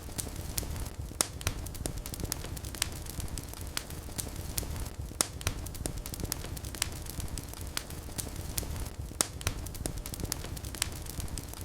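Wood fire burning in a fireplace: a low steady rumble of flames with irregular sharp crackles and pops, a few of them louder.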